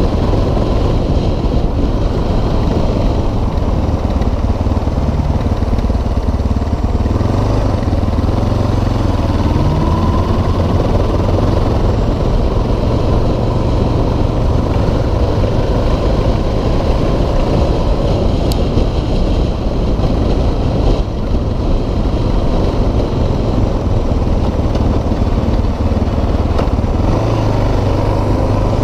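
2006 Suzuki DR650SE's single-cylinder four-stroke engine running steadily at road speed while riding.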